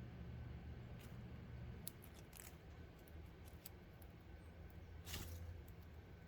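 Small birds at a log feeder pecking and scrabbling: faint scattered clicks, with a brief rustle about five seconds in, over a low steady hum.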